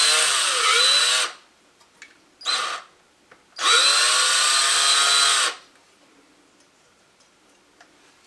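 Cordless drill spinning a screw in three trigger pulls: a run that stops about a second in, a short blip, then a two-second run, with the motor's pitch rising and falling as the trigger is eased.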